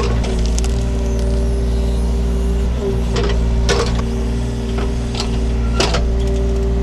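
Takeuchi TB230 mini excavator running steadily under load with a steady whine over the diesel engine note, while its bucket digs, giving four sharp knocks as it strikes roots and stony ground.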